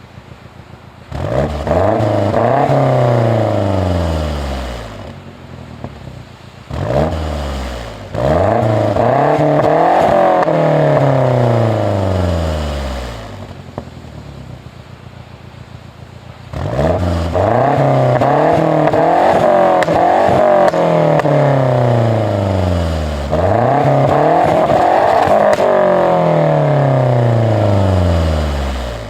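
Mazda 6 MPS's turbocharged 2.3-litre four-cylinder engine being revved at a standstill: about five throttle blips, each rising quickly, held briefly, then falling back slowly to idle.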